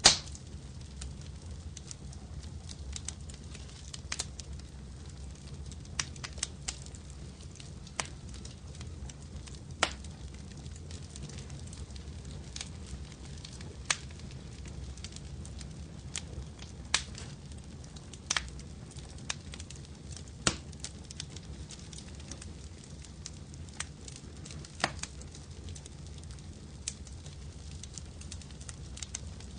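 Wood fire crackling in a fireplace: scattered sharp pops every second or two over a steady low rumble, with the loudest pop right at the start.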